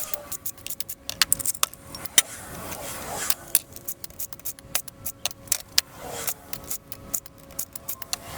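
Irregular metallic clicks, clinks and rattles of hand tools and metal engine parts being handled as a small engine is taken apart.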